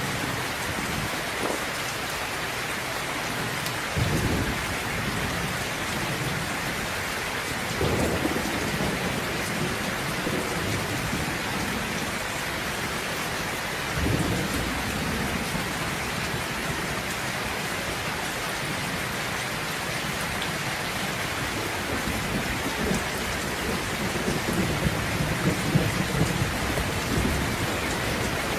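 Steady heavy rain falling, with rolls of thunder rumbling through it: short swells about 4, 8 and 14 seconds in, then a longer rolling rumble that builds toward the end.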